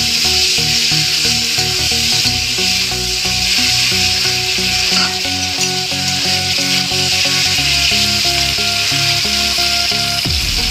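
Chicken pieces sizzling steadily as they fry in hot oil in an aluminium kadai, stirred and turned with a metal spatula. Background music plays underneath, changing abruptly near the end.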